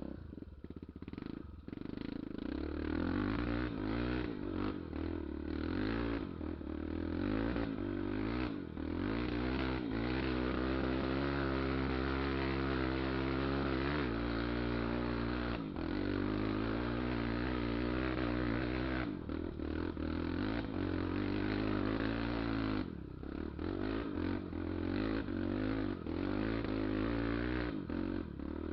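Honda Tornado 250 trail motorcycle's single-cylinder engine running under load while being ridden uphill. Its revs rise and fall repeatedly, steadiest in the middle stretch, and dip around the end.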